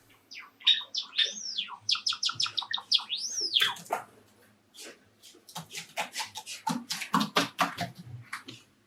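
Java sparrow singing: a string of quick clicking notes with two high, arching whistled glides, then after a short pause a fast series of sharp clicking notes.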